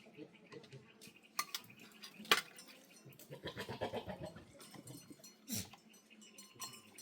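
A goat bleating about halfway through, with a few sharp knocks around it.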